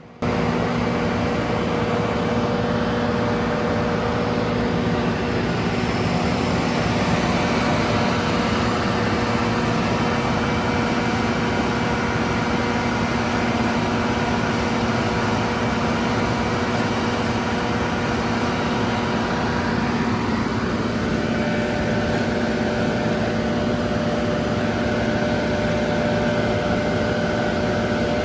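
Asphalt paver's diesel engine and machinery running steadily with a constant hum. Its tones shift slightly about twenty seconds in.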